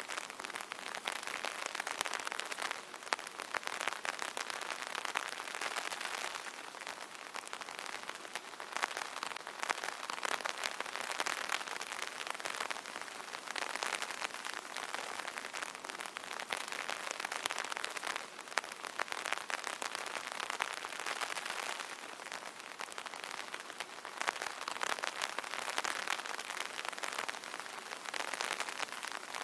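Light rain pattering on an umbrella canopy: a dense, steady spatter of fine drop ticks that swells and eases slightly every few seconds.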